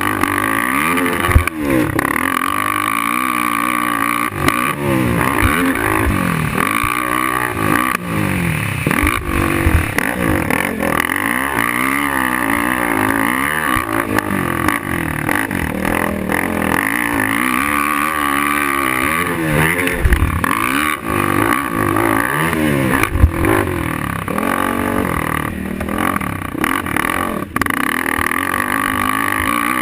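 Suzuki LT-R450 quad's single-cylinder four-stroke engine racing around a motocross track, its pitch rising and falling again and again as the rider revs, shifts and backs off, with a few sharp knocks along the way.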